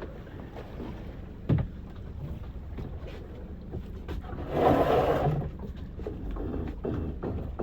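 Wind buffeting the microphone on a small fishing boat, over a steady low rumble. A single knock comes about a second and a half in, and a louder short rush of noise around five seconds.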